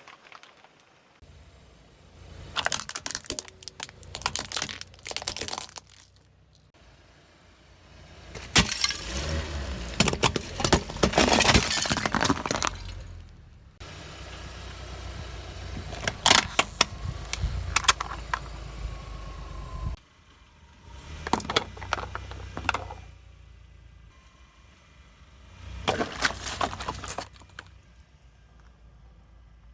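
A car's tyres rolling over and crushing brittle objects: several separate bouts of cracking and crunching, the longest and loudest about a third of the way in. The car's low rumble runs under the first two-thirds.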